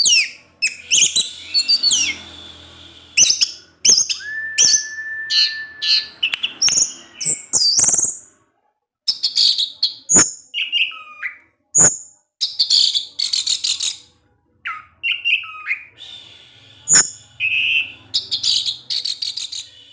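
Orange-headed thrush singing a fast, varied song of sharp chirps, trills and clear whistles, including one long held whistle, broken by two short pauses.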